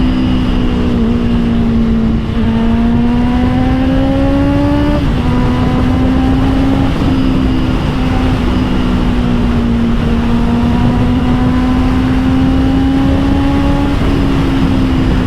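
Honda CBR650R inline-four engine through an Austin Racing GP1R exhaust, running under way at steady high revs; the pitch climbs gently, dips sharply about five seconds in, then climbs slowly again. A low wind rush runs underneath.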